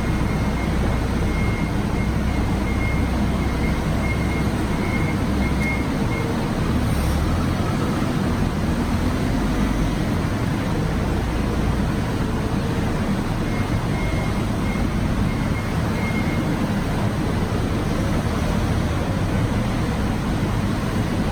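Steady mechanical noise with a low rumble, coming in abruptly, with a faint thin high whine that comes and goes.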